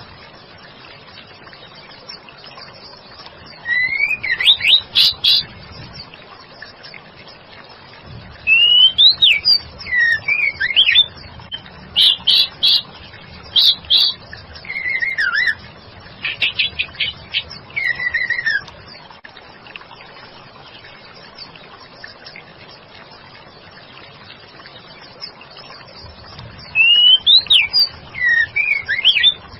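Female white-rumped shama singing: spells of quick, gliding whistled phrases a second or two long, about five of them, separated by pauses, the longest pause in the second half.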